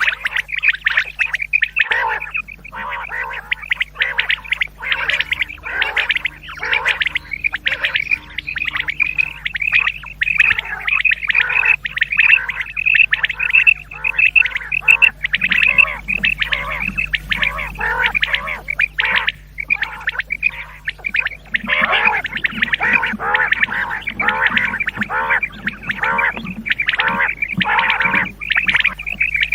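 Recorded common quail calls, many short calls packed closely together and repeating without a break, as played from a quail-calling cassette used to lure quail for hunting. A faint low hum runs underneath.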